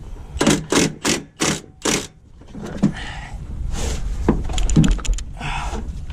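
A quick run of five knocks, about three a second, then a low rumble with scraping and clicks as tools work on a truck's seized gearbox and bell housing.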